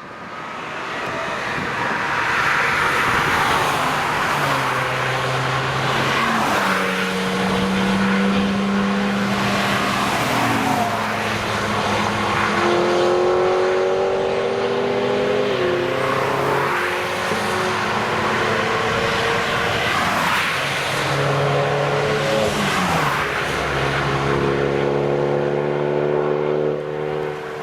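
Several cars driving past one after another on a wet race track, their engines revving and shifting up and down, with the hiss of tyres on the wet road.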